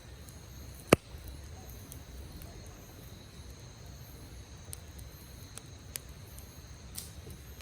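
Wood campfire crackling with scattered sharp pops, the loudest about a second in, over a steady high-pitched insect trill.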